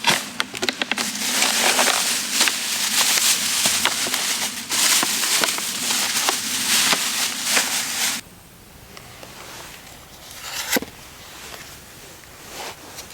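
Loud, dense crackling and popping from campfire cooking, cutting off abruptly about eight seconds in. After that only faint, scattered crackles are heard.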